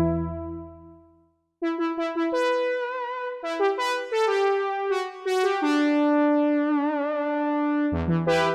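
Sequential Prophet 6 analog polysynth playing: a low chord dies away, and after a short gap a melody of single notes follows, with vibrato on the held notes. A new chord comes in near the end.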